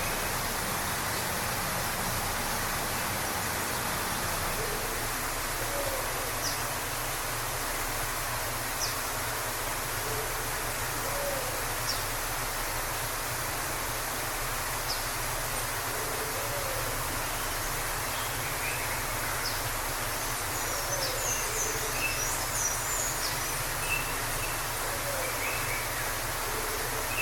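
Waterfall rushing steadily, with birds calling over it: short high chirps every few seconds, a brief flurry of higher twittering a little past the middle, and soft low hoot-like calls repeating every few seconds.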